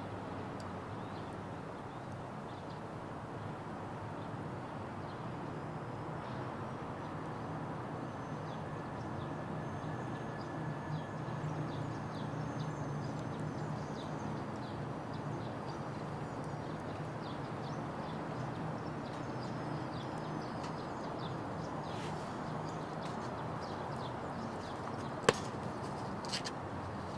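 Wood fire burning in a Petromax Atago fire pit: a steady low rush with scattered small crackles, and one sharp pop near the end.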